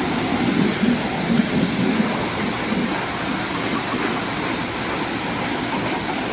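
High-pressure cleaning spray hissing steadily as it is sprayed under the car to wash off leaked oil.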